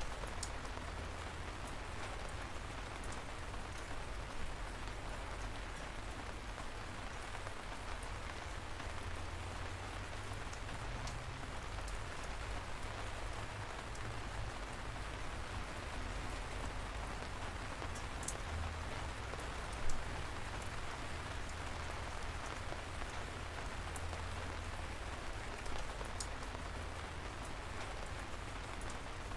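Light rain falling steadily, an even hiss of drizzle with occasional louder single drops striking close by, one standing out about two-thirds of the way in.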